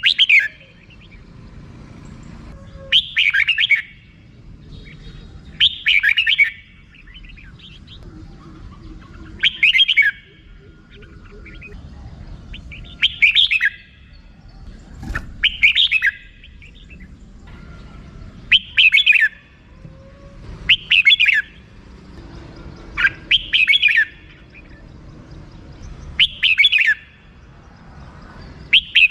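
Red-whiskered bulbul giving its short chattering 'rik' call again and again, one burst every two to three seconds.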